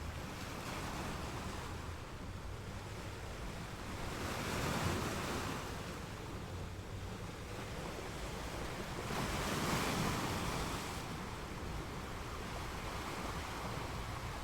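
Ocean waves washing onto a beach: a steady hiss of surf with two waves swelling up and breaking, about five and ten seconds in.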